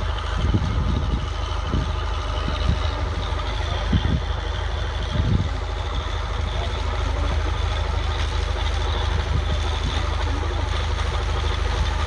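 Tractor engine running steadily at low revs, with a few brief deeper surges in the first half.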